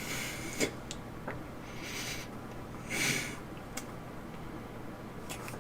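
A person breathing and sniffing close to a microphone: three short breaths, with a few faint clicks between them.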